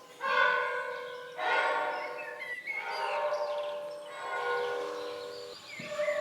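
Layered chord-like sustained tones, as in a sound-art piece, swell in suddenly about three times and slowly fade, with faint chirping glides above them.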